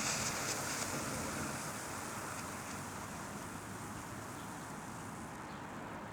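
Wind rushing across the microphone, a steady noise whose hiss eases off gradually over the first few seconds.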